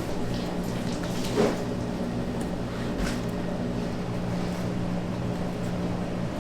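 Steady electric hum of kitchen machinery, cutting off near the end, with a single sharp knock about a second and a half in.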